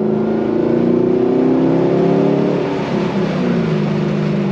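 Chevrolet Camaro's engine and newly extended exhaust under a full-throttle pull, heard from inside the cabin with the sunroof open. The engine note climbs steadily, then drops about three seconds in and settles at a lower pitch.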